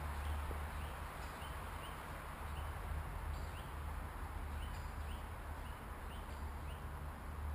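Woodland ambience: a small bird chirping over and over, short high calls about twice a second, over a steady low rumble and a soft hiss.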